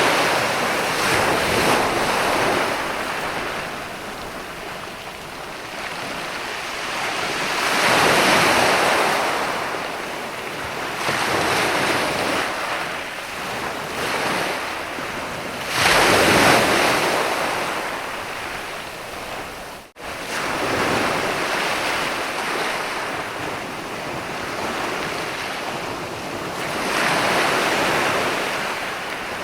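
Ocean surf breaking on a sandy beach, each wave swelling up and washing back over several seconds, the loudest one breaking suddenly about sixteen seconds in. The sound drops out for a split second about twenty seconds in.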